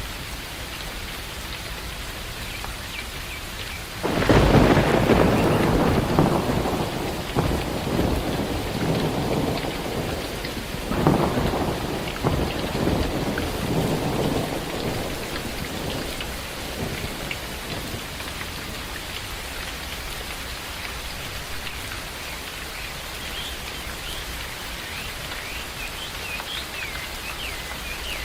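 Steady rain in a forest, with a sudden thunderclap about four seconds in that rolls on as rumbling, a second crack of thunder about eleven seconds in, and the rumble dying away after a few more seconds. Birds chirp faintly over the rain near the end.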